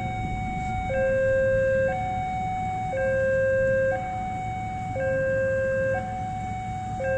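Railway level-crossing warning alarm sounding a steady two-tone hi-lo signal, switching between a lower and a higher tone about once a second: the warning that a train is approaching and the crossing is closed. A low steady rumble runs underneath.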